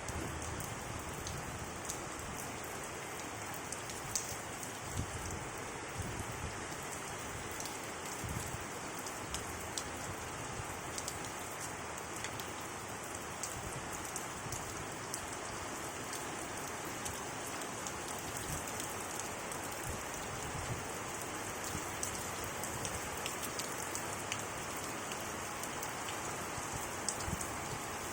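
Steady rain falling, with a constant hiss and many small drop ticks landing on surfaces.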